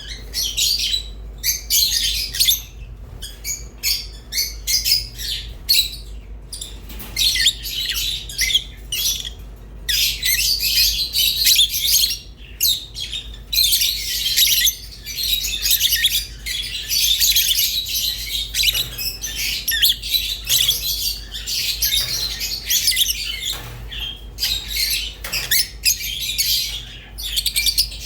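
Rosy-faced and Fischer's lovebirds chirping and squawking in a dense, rapid, high-pitched chatter with only brief pauses.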